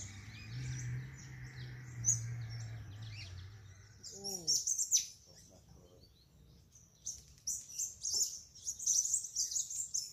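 Small birds chirping and twittering, a busy run of short, high calls that grows thickest over the last few seconds.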